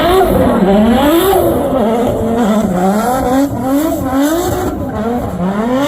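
Drift car engine revving hard: its pitch climbs and drops again and again in quick cycles as the driver works the throttle through a drift.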